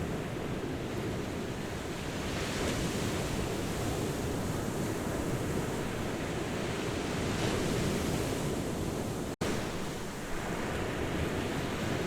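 Ocean surf washing onto a beach: a steady rush of breaking waves. The sound cuts out for an instant about nine seconds in.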